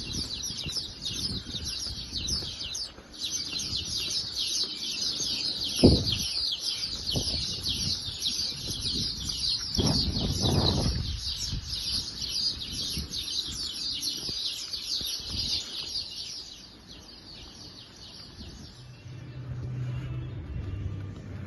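A flock of small birds chirping busily, a dense chatter of rapid high chirps that fades out about sixteen seconds in. A low thump comes about six seconds in, and a longer low rumble around ten seconds.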